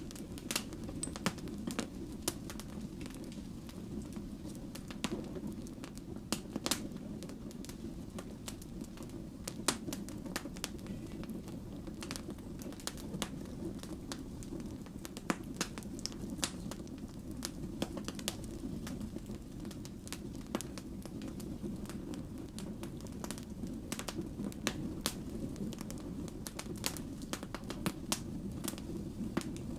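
Wood fire burning, with many irregular sharp crackles and pops over the steady low rumble of the flames.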